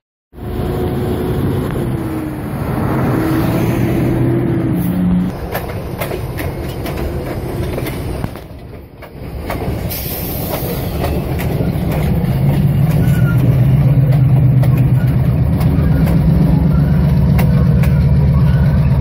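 Heritage passenger train rolling past: wheels clicking over rail joints under a steady rumble, then the diesel locomotive's engine running louder and steadier through the second half as it comes by.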